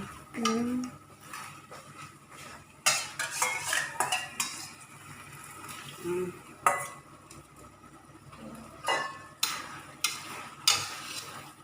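A metal spoon or spatula stirring food in a cooking pan, clanking and scraping against the pan at irregular intervals.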